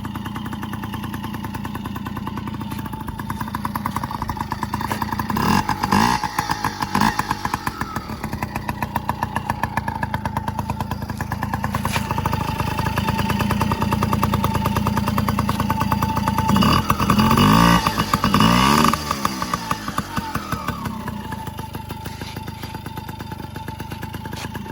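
Yamaha PW50 mini motorcycle's small two-stroke single-cylinder engine running, revved up twice: once about five seconds in and again, loudest, around seventeen to nineteen seconds in.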